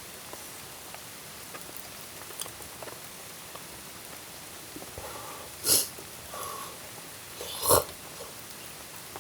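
Steady hiss of rain, with a few faint ticks and two short, louder noises a little past halfway and near the end.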